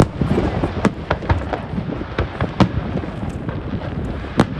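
Fireworks going off: a string of sharp bangs and crackles at irregular intervals, about two a second, over a continuous rumble of distant bursts.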